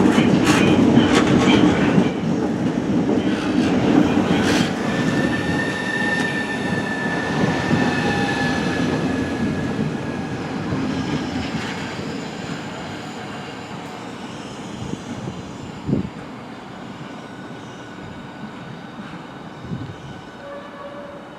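Class 395 Javelin high-speed electric multiple unit pulling in and slowing to a stand. Wheels click over rail joints at first, a brake squeal comes in about five seconds in, and the running noise then fades steadily away. A single short knock sounds near the end.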